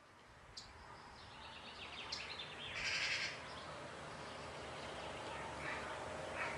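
Outdoor ambience fading in: steady background noise with scattered bird calls, the loudest a short burst about three seconds in.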